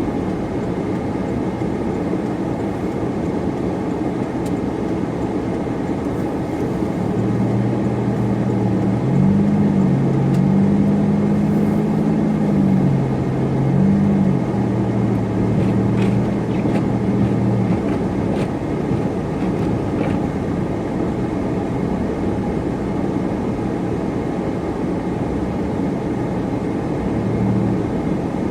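Car driving, heard from inside the cabin: a steady rumble of road and engine noise, with a low drone that shifts up and down in pitch through the middle.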